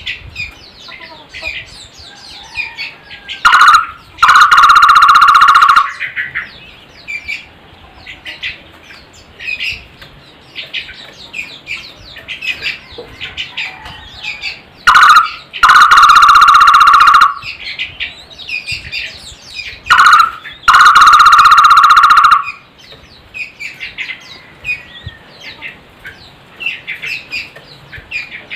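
A takur (barbet) calls loudly three times. Each call is a short note followed by a long, steady held note, and the calls are loud enough to distort. Rapid high chirps of small birds run underneath throughout.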